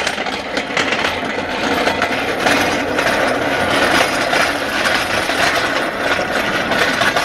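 Small hard wheels rolling over pavement under a heavy engine, with a continuous rattling and scraping clatter.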